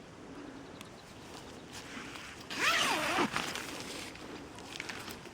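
A kitten meows once, about two and a half seconds in, a short call that rises and falls in pitch, amid rustling.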